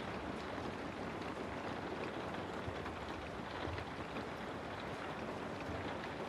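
Steady rain falling, an even hiss with scattered small drop ticks over a low rumble.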